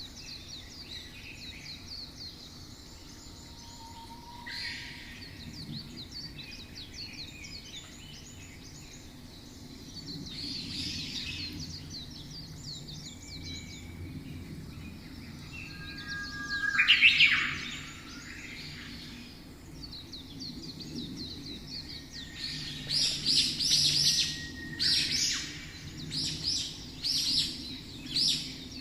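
Small songbirds chirping and trilling in quick high runs, with one loud sweeping call about seventeen seconds in and a fast string of sharp chirps near the end, over a faint low steady background hum.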